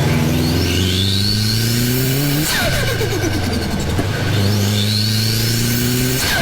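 Turbocharged car engine accelerating hard twice, its pitch and a turbo whistle rising together. Each time the throttle lifts, about two and a half seconds in and again near the end, the turbo flutters: a rapid 'stututu' chatter of compressor surge with a falling whistle.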